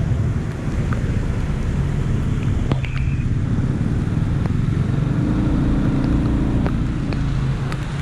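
Steady rumble of motor-vehicle engines in rain, with a hiss of noise and scattered sharp ticks; an engine note rises a little between about five and seven seconds in.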